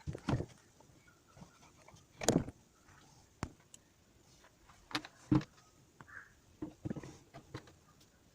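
Irregular knocks, clinks and scrapes from parts and tools being handled while working on a starter motor. The loudest knocks come a little over two seconds in and around five seconds in.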